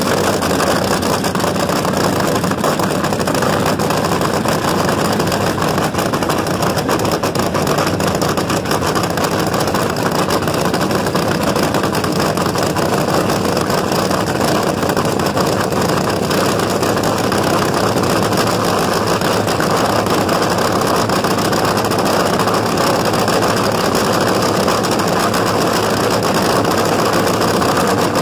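Drag-racing funny car's engine idling loudly and steadily, held without revving.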